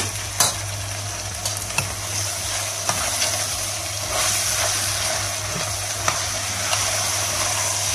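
Soaked white beans being stirred with a spoon into sizzling oil, tomato paste and sucuk in a steel pot: a steady frying sizzle with scattered scrapes and clicks of the spoon against the pot and beans.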